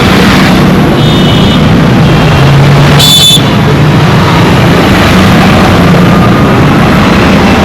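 Dense road traffic: engines running under constant loud road noise. There is a short high-pitched beep about a second in and a sharper high squeal or toot at about three seconds, typical of vehicle horns.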